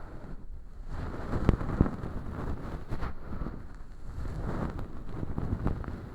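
Tweezers picking and peeling crispy fake earwax, made of crushed holographic film, inside a silicone ear model: close, dry crackling and rustling with sharp crackles every second or so.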